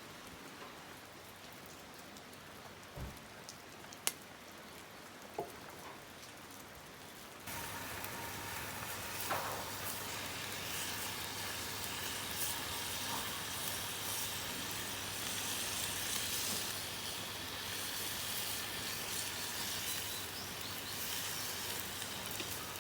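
Light rain pattering with a few small ticks, then about seven seconds in a sudden change to a louder, steady sizzle of food frying over a campfire.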